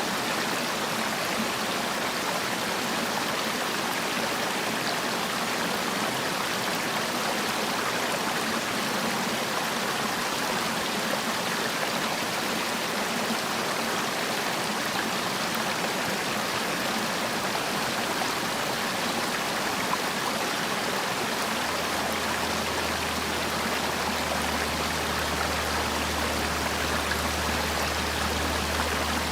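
Mountain valley stream running over rocks, a steady even rush of water. About three-quarters of the way in, a low steady hum joins underneath.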